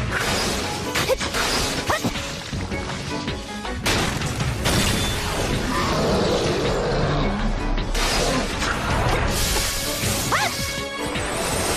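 Dramatic battle music mixed with crashing, shattering impact effects, with sudden hits and a short rising sweep near the end.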